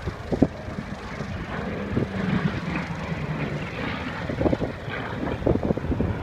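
Piston-engined propeller aircraft droning, with a low engine note that swells about two seconds in and eases off near the four-second mark.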